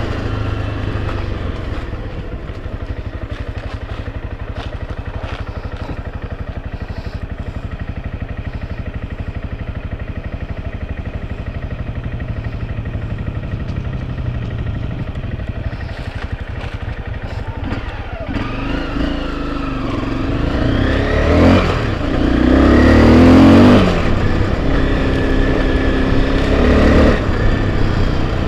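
Enduro motorcycle engine running steadily at low revs, then revving up and down from about 18 seconds in, loudest around 22 to 24 seconds.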